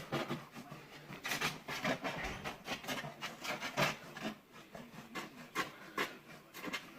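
Irregular scraping and rubbing as a stainless-steel sandwich chimney pipe is worked through the insulated passage in the wall, in many short uneven strokes.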